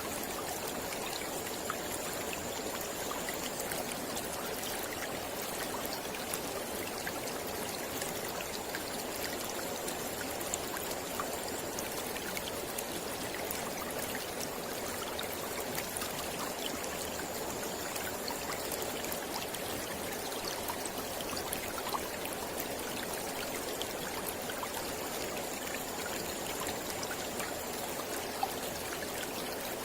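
Mountain river flowing steadily, an even, unbroken rush of water.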